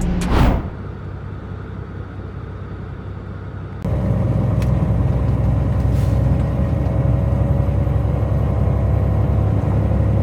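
Semi-truck engine and road noise heard from inside the cab, a steady low drone. It starts with a brief falling whoosh, then the drone, which turns suddenly louder about four seconds in.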